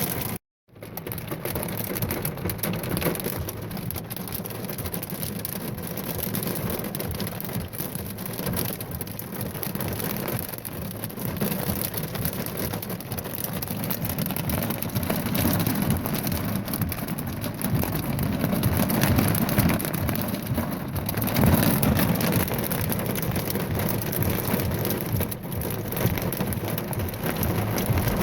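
Pea-sized hail and heavy rain pelting a car's roof and windshield: a dense, steady clatter of countless small hits.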